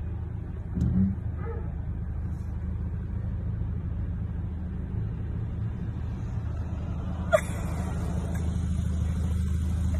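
Car engine idling, heard from inside the car: a steady low hum. A brief low thump about a second in and a sharp click about seven seconds in.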